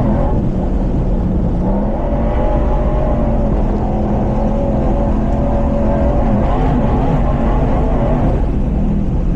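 Off-road truck engine running steadily under load with small rises and falls in revs, over a constant rumble of driving noise.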